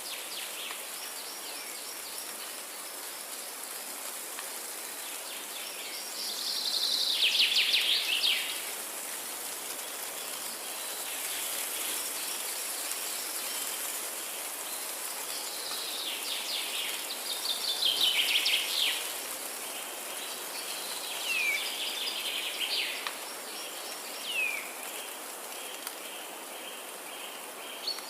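Forest ambience: songbirds singing over a steady background hiss with a high, even buzz. Two loud descending trilled songs stand out, about a quarter of the way in and again a little past halfway, and short downslurred calls repeat near the end.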